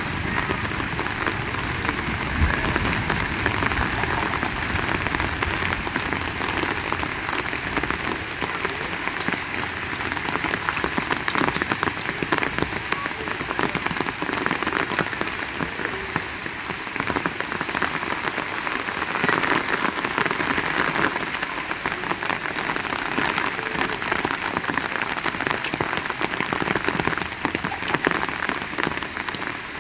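Heavy rain pouring down steadily, a dense patter of drops hitting surfaces.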